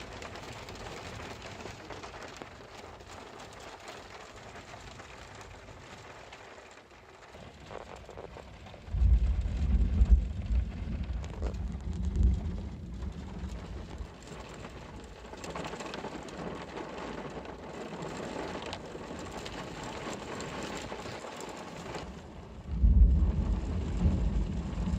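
Steady heavy rain falling during a thunderstorm, broken twice by loud low claps of thunder, one about nine seconds in and another near the end, each rumbling away over a few seconds.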